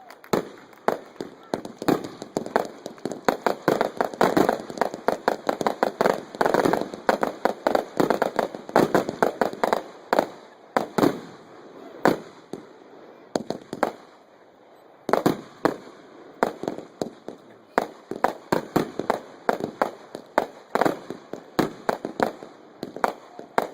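Fireworks going off in a dense run of sharp bangs and crackling pops, several a second, with a brief lull a little past halfway before the popping picks up again.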